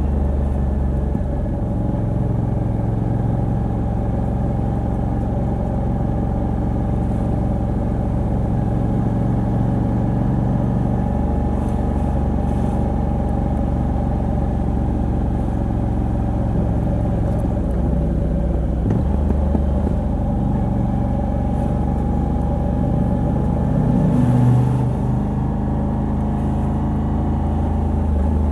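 Moto Guzzi V85TT's air-cooled 853 cc transverse V-twin running steadily at a relaxed cruise, through its stock exhaust with a decat pipe. The note changes about two-thirds of the way through and rises briefly in level a few seconds later.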